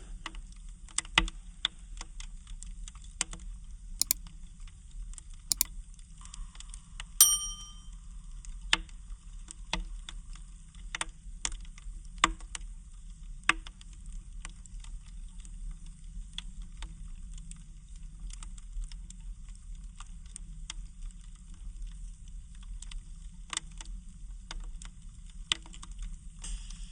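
Wood fire crackling in a fireplace: irregular sharp pops and snaps over a steady low rumble of the flames. The loudest pop, about seven seconds in, carries a brief ringing tone.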